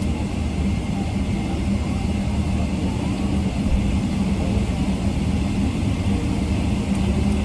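Steady airliner cabin noise: a constant low hum and rush from the aircraft's engines and air system, with faint voices in the background.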